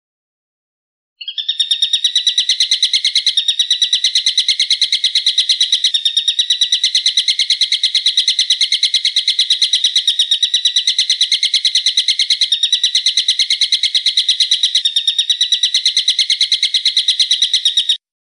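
A bird's fast, even trill of sharp, high repeated notes, about eight a second, kept up without a break for some sixteen seconds, starting about a second in and cutting off suddenly near the end.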